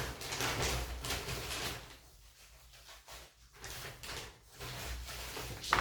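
Coarse orchid potting mix with bark bits and sphagnum being handled, rustling and scraping in irregular crunches, quieter for a moment midway.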